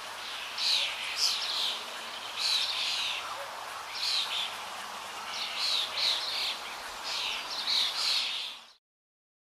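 Bird chirps, short high calls repeating every half second to a second over a steady background hiss; the sound cuts off abruptly near the end.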